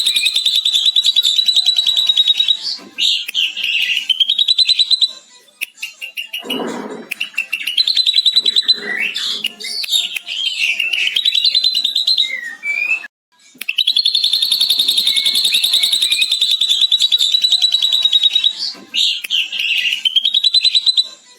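Ashy drongo singing a long, rapid chattering trill copied from a lovebird's 'ngekek', then varied whistled and harsh phrases. The whole passage starts again about two-thirds of the way through.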